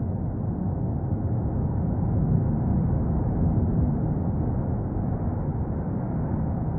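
Cumbre Vieja volcano erupting: a steady low rumble with no separate blasts, swelling slightly around the middle.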